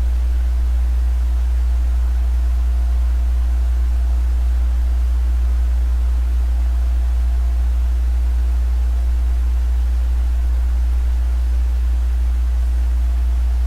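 Steady, loud low hum with a few faint higher tones over it, unchanging throughout, with no distinct events.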